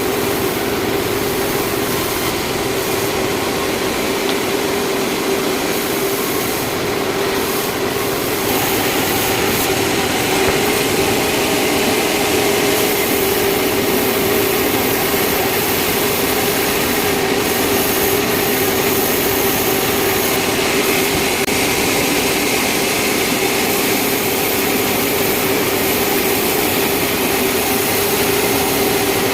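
Sawmill saw running steadily with a constant hum and hiss, growing a little louder and brighter about eight seconds in.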